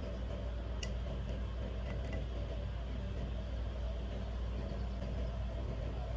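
A steady low mechanical hum with a few faint light ticks.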